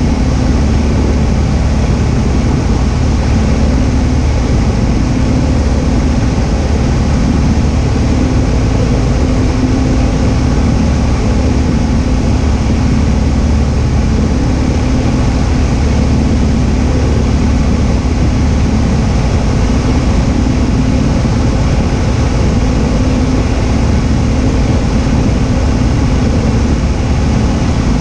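Cessna 172H's Continental six-cylinder engine and propeller droning at a steady, unchanging power setting.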